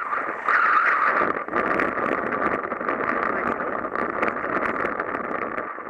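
Wind and rushing water on a Mirror dinghy sailing in strong wind: a steady rushing hiss with many small crackles and splashes running through it.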